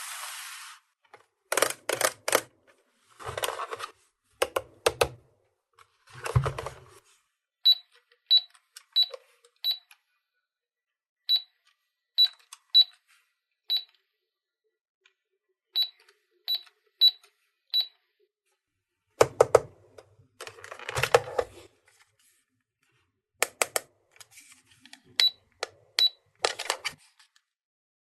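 Hard plastic toy pieces clicking and rattling as they are handled. In the middle comes a run of about fifteen short, high electronic beeps, like the buttons being pressed on a toy shop playset.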